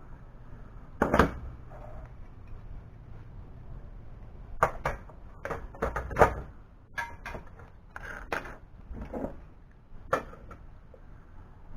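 Irregular sharp clicks and knocks of small objects being handled and set down, about a dozen, with the loudest near the start and around six seconds in.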